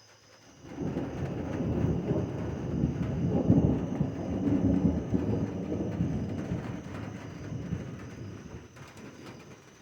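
Thunder rumbling: a long low roll that comes in about a second in, swells to its loudest a few seconds later and slowly dies away.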